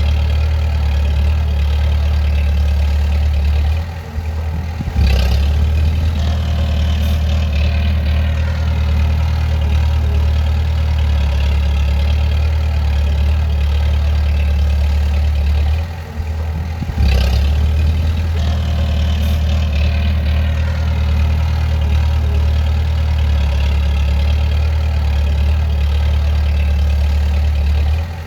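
A bulldozer's diesel engine running steadily under load. Twice, about four seconds in and again about sixteen seconds in, it eases off for about a second, then picks up again and its pitch rises over the next few seconds.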